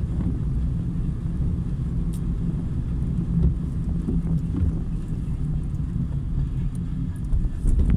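Car driving along a city street, a steady low rumble of engine and road noise heard from inside the cabin.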